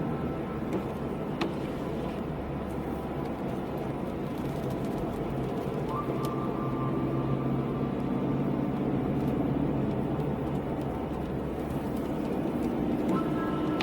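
Car driving: steady engine and road noise, with a whine that steps up in pitch about six seconds in and again near the end.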